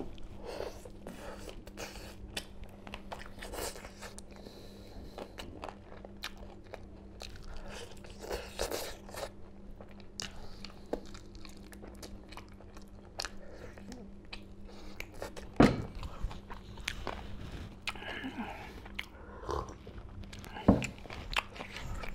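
A person eating curried chicken leg pieces by hand, with close, crunchy biting and wet chewing in a run of small, irregular clicks. Two sharper, louder clicks come about two-thirds of the way through and again near the end, over a faint steady low hum.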